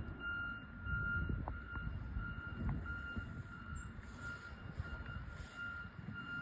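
A snowplow truck's reversing beeper: a steady high beep repeating about twice a second, over a low rumbling background.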